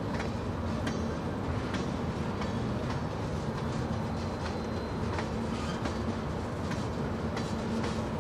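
Freight train rolling past: a steady rumble of the cars with sharp clicks from the wheels at irregular intervals.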